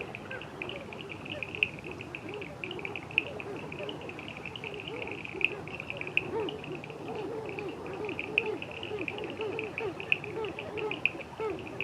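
Night-time nature chorus: insects trill steadily in a high pulsing band, while many short, low calls rise and fall over one another, thickening from about six seconds in.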